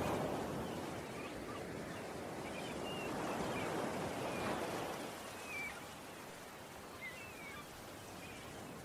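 Ocean waves washing in a steady hiss that swells twice and then eases, with birds chirping faintly in short calls.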